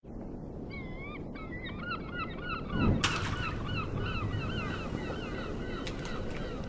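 A bird calling over and over in short, wavy, pitched notes, about two to three a second, over a steady low rumble. There is a sudden thump about three seconds in.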